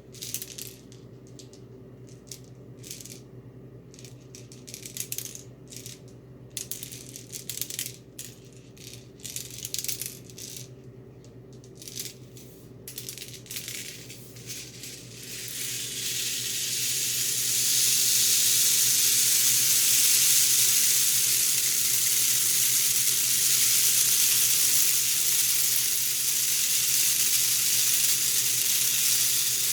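Homemade PVC pipe rain stick filled with copper-coated BBs, which tumble through rings inside the tube. For the first fifteen seconds or so it gives short, irregular rattles; then it turns into a continuous rain-like hiss that swells and holds steady.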